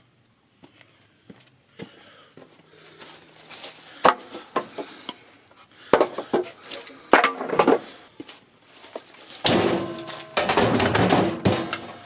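Knocks and clatter of hard objects being handled, a string of separate sharp knocks followed by a denser rattling stretch near the end.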